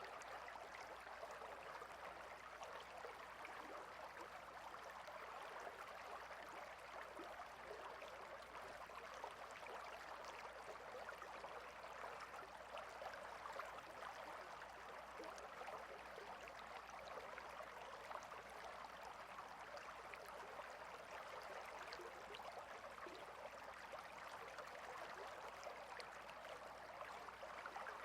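Steady babble of a small stream, water trickling and splashing over stones without let-up.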